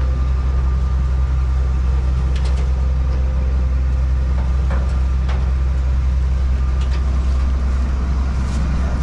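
Zmaj 142 combine harvester's diesel engine running steadily close by as the machine creeps along, a deep even drone with a few faint clicks over it.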